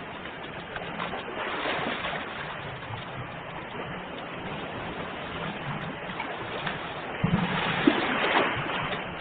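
Ocean waves washing in, a continuous rush that swells twice, the second swell from about seven seconds in bringing louder splashes.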